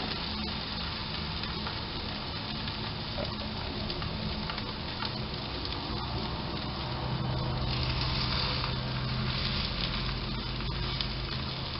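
Cottage cheese cookies frying in melted butter in a frying pan: a steady sizzle, with a low steady hum underneath.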